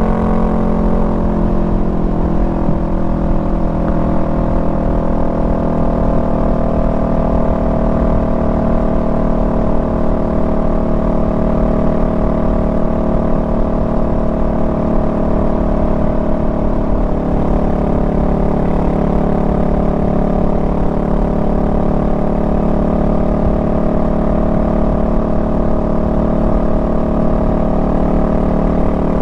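Honda Rebel 500's parallel-twin engine running at a steady cruise. Its pitch eases down slightly in the first couple of seconds, then holds even.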